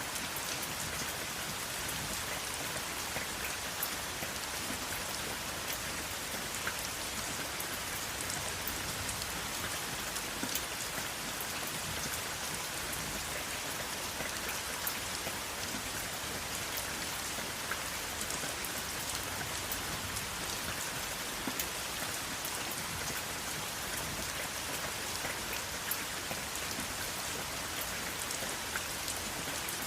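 Steady rain falling: an even hiss with many small, sharp drop ticks scattered through it, and no thunder.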